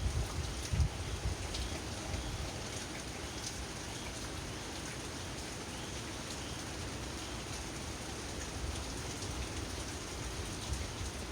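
Steady heavy rain from a hurricane, falling as an even hiss with faint drip ticks, with gusts of wind rumbling on the microphone in the first second or so.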